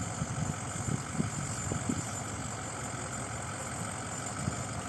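A vehicle's engine idling steadily, with a few short irregular knocks over the first two seconds and one more near the end.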